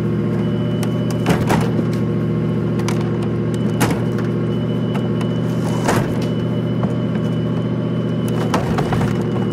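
Vehicle engine idling steadily, with about five sharp wooden knocks as logs are dumped and strike one another.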